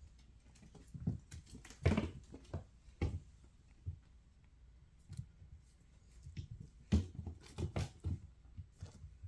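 Bengal kittens playing, making irregular soft thumps and patter, with louder knocks about two seconds in and again near seven seconds.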